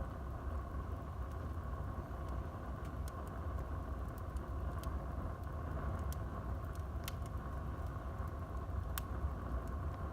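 Wood fire burning in a fireplace: a steady low rumble of flames with scattered crackles and sharp pops, two of the loudest about seven and nine seconds in.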